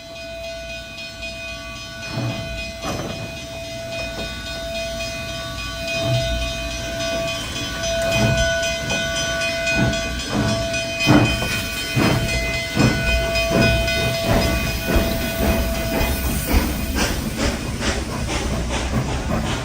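Two Durango & Silverton steam locomotives pulling away as a double header: the exhaust chuffs start slowly a couple of seconds in and come faster and louder as the train gathers speed. A long steady whistle-like tone sounds over most of it and dies away near the end.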